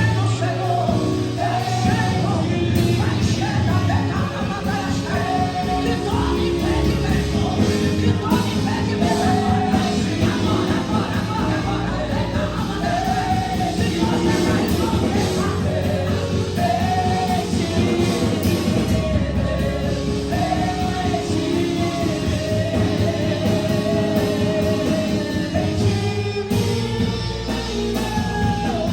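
Live worship music: a singer's voice over a full band with drums and guitar, echoing in a large hall.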